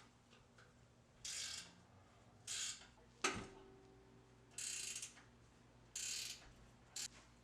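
Ratchet wrench clicking in short runs, about five strokes, working the exhaust bolts loose. About three seconds in there is one sharp metallic clink that rings briefly.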